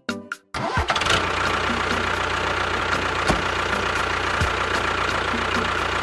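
Small engine of a DIY miniature tractor starts abruptly about half a second in, then runs steadily with a faint regular ticking, about three ticks a second.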